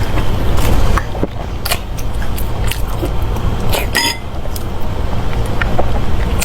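A person eating: chewing hard-boiled egg with scattered short, sharp clicks. A steady low rumble runs underneath.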